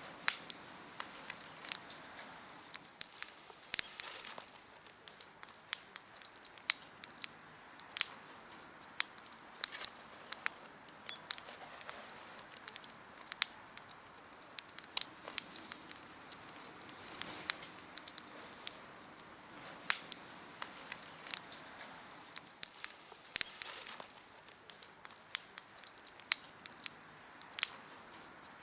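Small wood campfire crackling, with sharp irregular pops several times a second over a soft, even hiss of burning.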